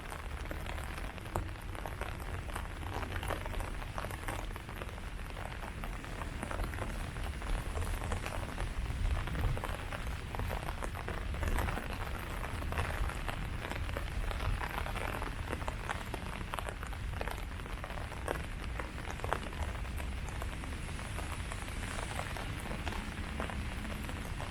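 Steady rain falling on leaves, many separate drops tapping at once, over a low rumble.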